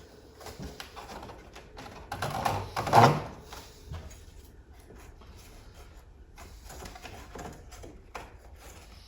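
Thin plywood divider pieces being slid into each other and knocked together as a silverware tray is test-fitted: scattered wooden knocks and scrapes, the loudest a scraping slide ending in a knock about three seconds in.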